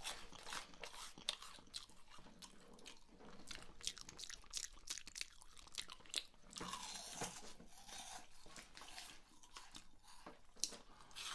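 Crunchy Flaming Hot Cheetos bitten and chewed close to a microphone: a quiet, irregular run of crisp crackles.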